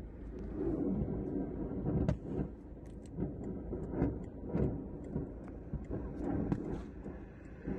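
Ammunition depot detonating: irregular sharp pops of exploding munitions, roughly one or two a second, over a steady low rumble.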